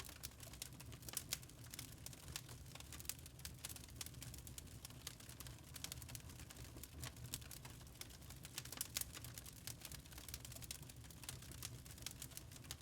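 Log fire in a fireplace crackling, with frequent irregular sharp pops and snaps over a faint low rumble.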